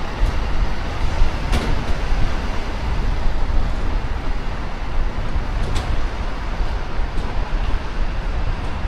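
Steady road traffic noise with a heavy low rumble, picked up by a runner's action camera microphone, with a couple of brief sharp clicks.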